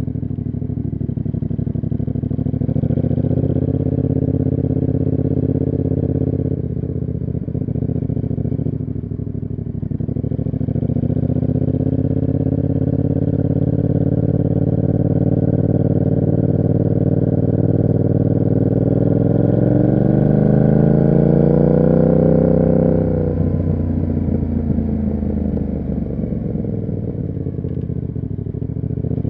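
Yamaha MT-07's 689 cc parallel-twin engine through an SC Project aftermarket exhaust while riding. It runs steadily with a brief dip about seven seconds in, then rises in pitch for a long stretch as it pulls through a gear. About two-thirds of the way through it cuts back and falls away in pitch, picking up again near the end.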